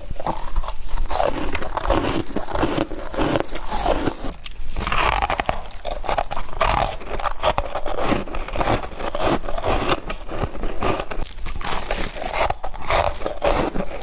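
Close-up biting and chewing of humidifier frost: dense, continuous crunching and crackling.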